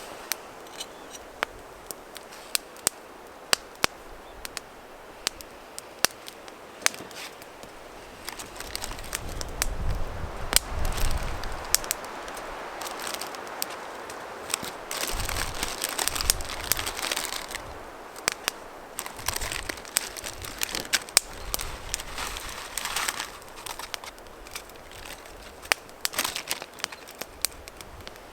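Small wood fire crackling and snapping in a Bushbox stove, with irregular sharp pops over a steady hiss. Several stretches of louder rushing noise come and go, the first about nine seconds in.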